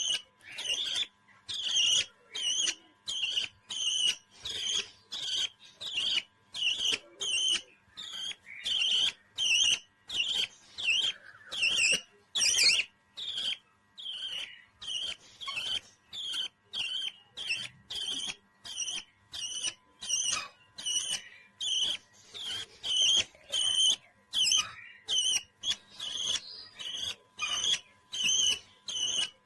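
A pet parrot chirping in short, high calls that repeat at an even pace, about two a second.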